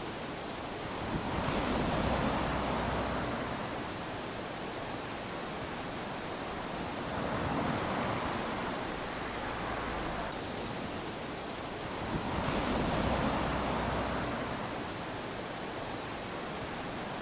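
Small ocean waves washing up onto a sandy beach, a steady hiss of surf that swells with each wave about every five or six seconds, three times.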